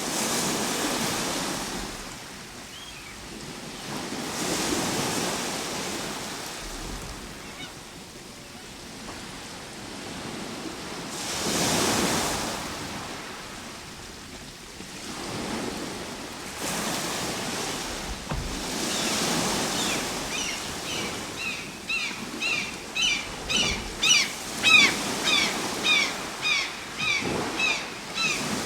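Ocean surf: waves rising and washing in every few seconds. From about two-thirds of the way in, a bird calls over it in a fast series of short, sharp chirps, about two a second, louder than the surf.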